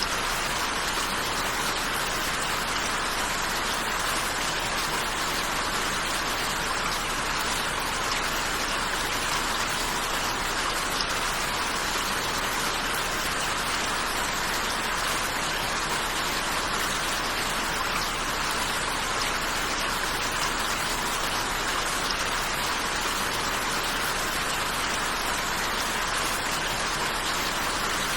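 Steady rain falling, an even hiss that holds constant without any change.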